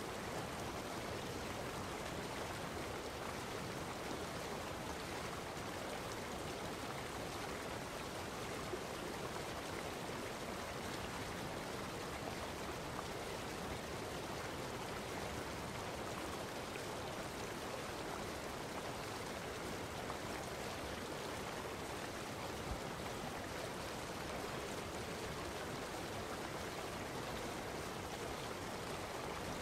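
Steady flowing water, an even rushing sound that does not change.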